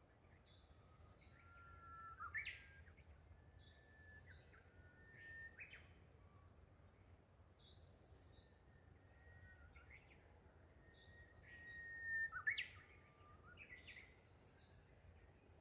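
Small birds singing faintly: a short, high twittering phrase repeats every few seconds over longer, level whistled notes. A low, steady rumble runs underneath.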